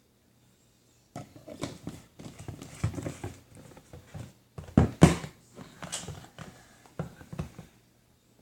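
Slime being squeezed and poked by hand: an irregular run of squelches and sharp sticky clicks, starting about a second in, the loudest near the middle.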